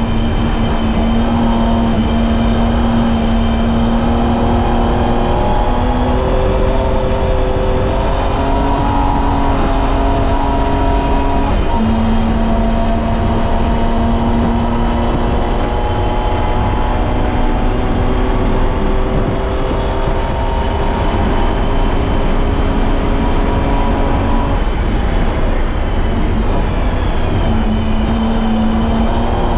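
BMW E30's M20B25 2.5-litre inline-six engine running hard under load, its note climbing steadily and then dropping back several times as the car shifts gears and lifts for corners, over a constant hiss of tyre and road noise.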